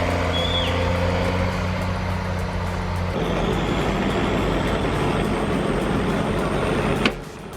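Logging tractor engine running steadily under load. About three seconds in, it changes to a rougher, noisier engine sound. Near the end there is a sharp click and the sound briefly drops.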